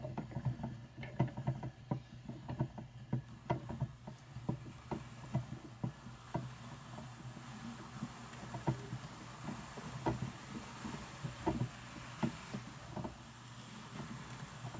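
Hand-cranked Brother Standard drum carder with fine carding cloth turning as Targhee wool is carded, giving an irregular run of light clicks and scratchy ticks over a steady low hum.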